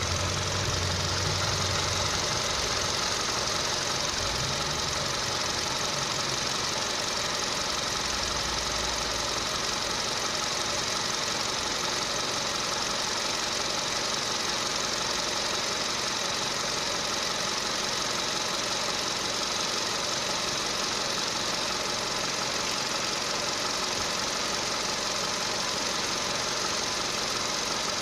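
Volkswagen Polo Sedan running with a steady, even engine and mechanical noise and no distinct knock.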